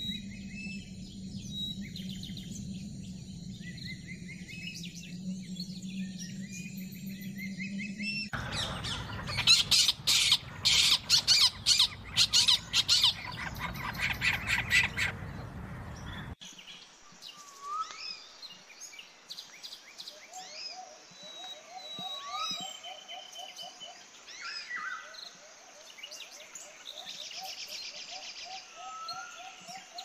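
Wild birds calling and chirping, in three differently recorded stretches. First come chirps over a steady low hum. A louder, harsher stretch follows about a third of the way in. The rest is clearer rising whistles and quick runs of repeated notes.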